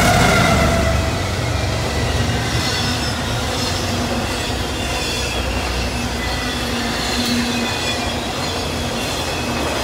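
Freight cars of an intermodal train rolling past: a steady rumble of steel wheels on rail, with faint high wheel squeal coming and going. In the first second or so, the tone of the just-passed locomotives fades out, falling in pitch as they move away.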